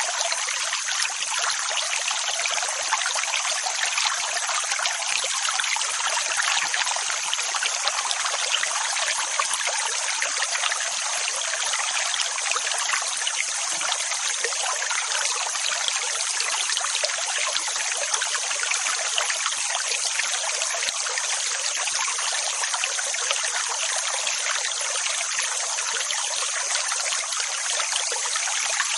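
Steady, continuous rushing water, hissy and without any deep rumble, holding an even level with no rise and fall of separate waves.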